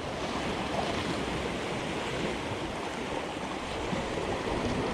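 Ocean swell washing in over rocks, a steady surf noise.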